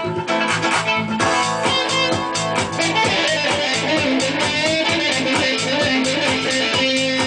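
Guitar music with a steady rhythm, played over a backing of bass and other instruments.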